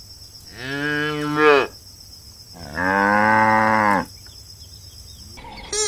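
A cow mooing twice, each call lasting just over a second, with a pause between them. Guitar music starts near the end.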